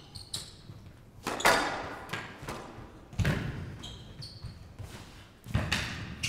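Squash rally in a hall: the ball is struck by rackets and cracks off the court walls, with sharp hits a second or two apart. Short high squeaks of players' court shoes on the floor come between the hits.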